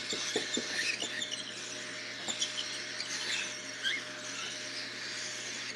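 Baby cockatiels giving their begging calls while being handfed: many short, high squeaks and chirps scattered throughout.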